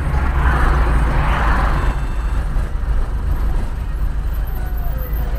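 Steady low rumble of a vehicle on the road, with a hiss lasting about a second and a half near the start.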